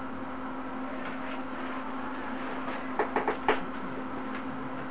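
Steady electrical hum and room noise, with a quick run of four sharp clicks about three seconds in.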